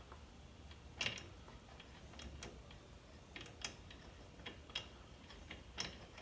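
Faint, irregular metal clicks and ticks from a thread-repair tap being turned by hand with a socket on a T-bar as it starts cutting into the stripped spark plug hole of a Stihl chainsaw cylinder. The loudest click comes about a second in.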